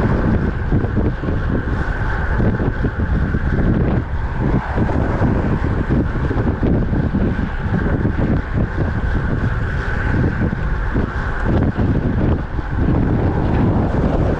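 Wind buffeting the microphone of a camera carried on a moving road bicycle: a loud, steady rush with uneven low gusts, over continuous road noise.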